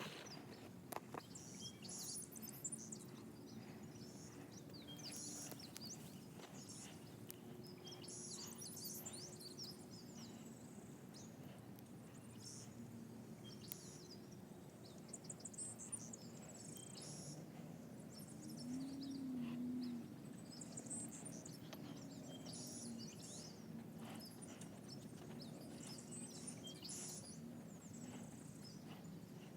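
Faint outdoor ambience: songbirds chirping over a steady low background hum, with a wavering low drone for about two seconds a little past the middle.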